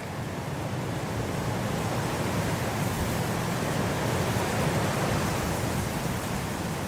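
Blizzard wind blowing as a steady rushing noise, swelling gently in the middle and easing slightly near the end.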